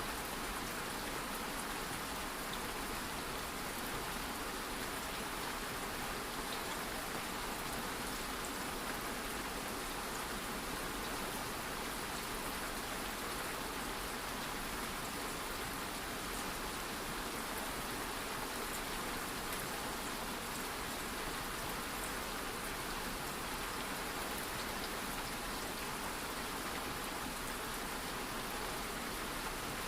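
Light rain falling steadily, a soft even patter with faint scattered drop ticks.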